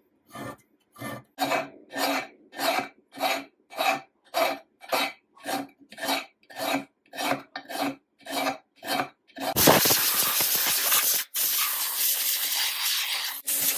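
Rhythmic rasping strokes of abrading a part by hand, about two a second, that give way about ten seconds in to a continuous spray hiss, broken off once for a moment.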